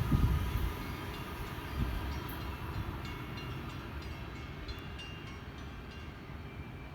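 Freight train rolling along the track: a steady low rumble with two heavy thumps in the first two seconds, slowly fading.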